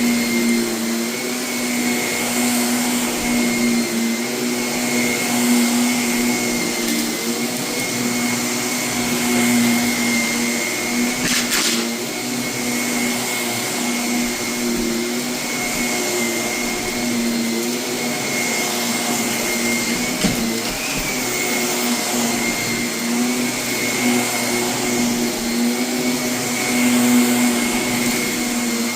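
Vacuum cleaner running steadily over heavily soiled carpet, picking up renovation debris, with a steady motor hum, a thin high whine and airflow hiss. A brief crackle comes about eleven seconds in.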